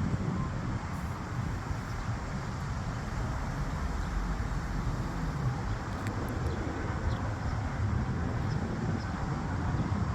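Tow truck engine running steadily at low revs while it manoeuvres, a low rumble.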